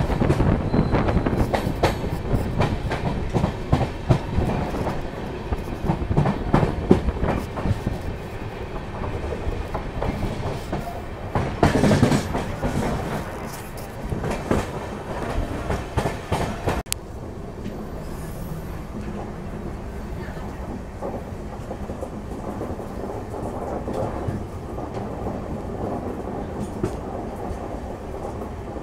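Passenger train coach running, its wheels clattering over rail joints and points with a fast, irregular clickety-clack heard through the open coach door, loudest in a flurry about twelve seconds in. About halfway through it drops abruptly to a steadier, quieter running rumble.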